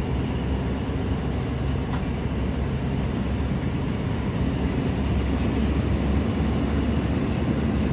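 Steady rumble of a passenger train running, heard at the side of the coach: wheels on the rails and the coach moving through the air, with one faint tick about two seconds in.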